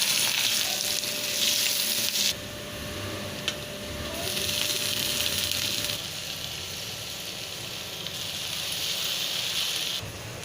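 Food sizzling in hot oil or on a hot pan, a steady high hiss that cuts off abruptly about two seconds in, returns a couple of seconds later and stops suddenly near the end. A single sharp click comes in the gap.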